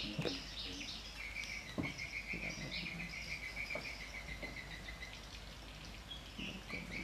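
Birds chirping outside, with a fast trilling run of notes from about a second in until about five seconds, and a few soft knocks.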